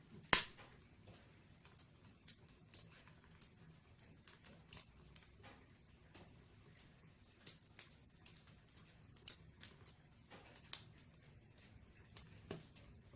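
Wood fire in a fireplace crackling: scattered sharp snaps and pops from the burning logs, with one loud pop just after the start.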